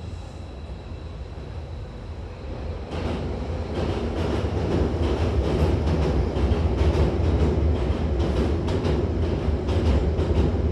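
Hankyu train running on the rails, a steady low rumble with the wheels clicking over rail joints. It gets louder about three seconds in.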